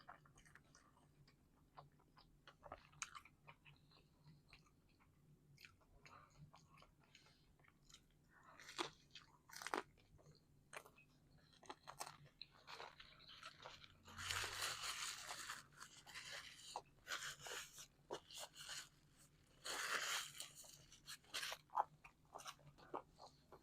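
Close-up mouth sounds of chewing baked calzone: soft, scattered crunches and smacks, with two louder stretches of crunching a little past halfway and again near the end.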